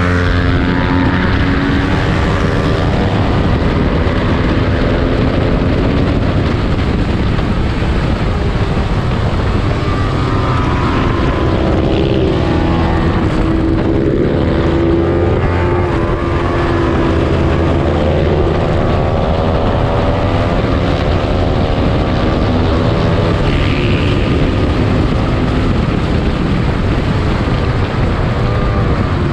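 Small-displacement 300-class race motorcycle engine running hard at racing speed, its pitch climbing and dropping again and again as it revs through the gears and slows.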